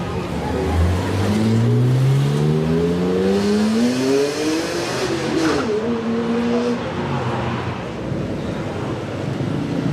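Sports car with a loud aftermarket exhaust accelerating hard, its engine note rising steadily for about three seconds. About halfway through the pitch changes abruptly, then holds a steady note briefly before fading.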